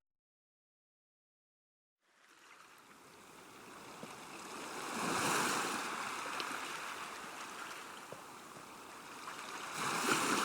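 Silence for about two seconds, then calm sea wash fades in: small waves breaking and washing up a shore, one swelling about three seconds later and another near the end.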